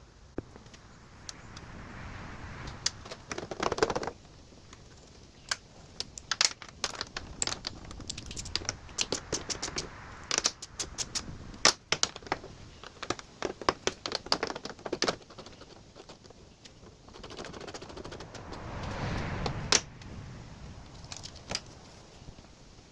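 Hand-tool work on small bolts: irregular metallic clicks and clinks as 1/4-20 bolts are threaded into riv nuts and snugged down, the clicks coming thick and fast through the middle. Two short stretches of rustling handling noise, about two seconds in and near the end.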